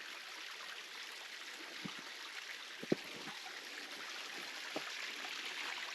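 Flowing water running steadily, a stream or trickle feeding a rock pool, with a few faint knocks about two, three and five seconds in.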